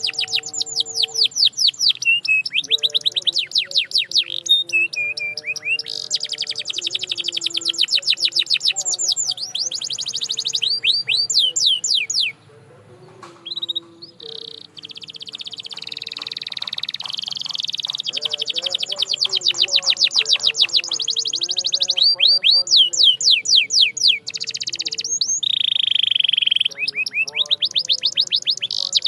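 Canary singing: long runs of rapid trills made of fast repeated high notes, broken by a short pause about twelve seconds in, with a held whistled note a little before the end.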